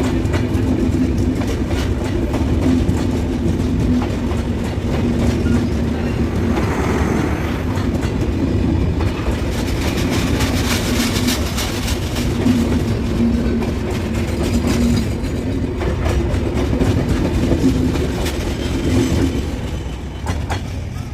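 Train running past close by: a steady rumble and hum with the wheels clattering over rail joints in quick clicks. The sound eases off near the end.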